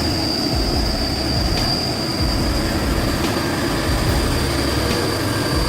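Low rumble of a heavy vehicle on the move, with a steady high-pitched whine held throughout and a faint tick about every second and a half.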